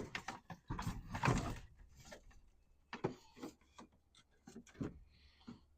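Irregular clicks, knocks and rustling of hands working with tools and parts while a temporary fuel line is rigged, busiest in the first second and a half, then scattered taps.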